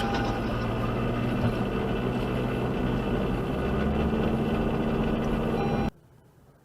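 Steady hum of a car running, with low even tones under it; it cuts off abruptly near the end.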